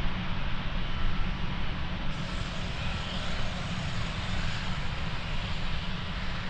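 Jet engines of a departing Boeing 787-9, a steady noise with a deep low rumble; a higher hiss joins about two seconds in.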